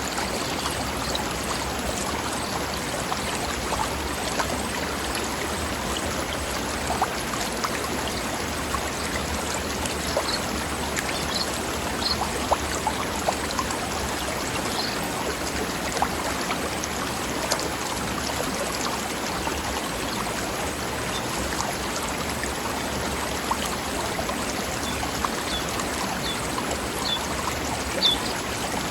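Mountain stream flowing over rocks: a steady rush of babbling water, with a few short, high bird chirps now and then.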